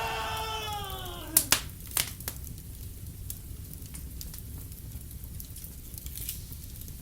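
A high-pitched scream, held and then sliding down in pitch, cuts off about a second in. After it comes a wood fire crackling in a fireplace, with a few sharp pops in the next second, the loudest of them first, then steady small crackles.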